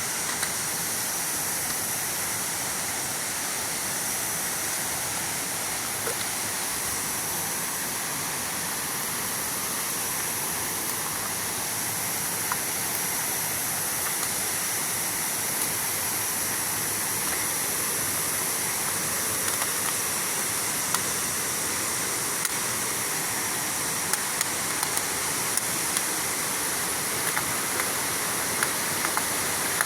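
Waterfall pouring steadily, a constant rushing of falling water with a few faint ticks.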